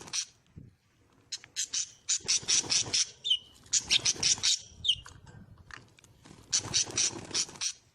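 Small cage birds squawking and chattering in rapid bouts, three bursts each lasting about a second, with a couple of short whistled notes between them.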